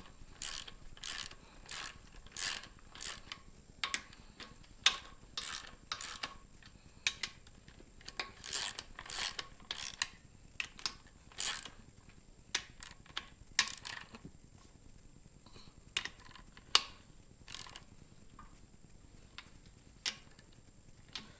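Hand ratchet clicking in short runs as the main bearing cap bolts are run down snug on an engine block, with pauses between strokes. The clicks come thick in the first half and thin out later.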